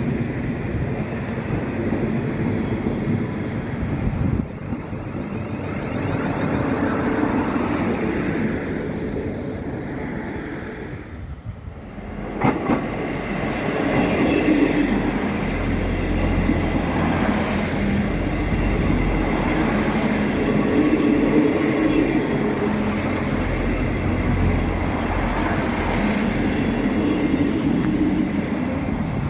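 A train running through the station: a steady rumble of wheels on the rails that dips for a moment about eleven seconds in, then a sharp clank, after which the rumble picks up again with a low hum underneath.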